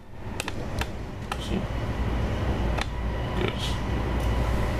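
Passenger train running, heard from inside the carriage: a steady low rumble with scattered sharp clicks and rattles.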